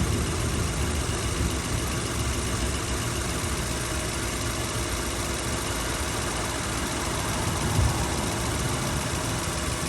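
Toyota 2UZ-FE 4.7-litre V8 idling steadily just after an engine flush and oil refill, running a little smoother. A brief low thump comes about eight seconds in.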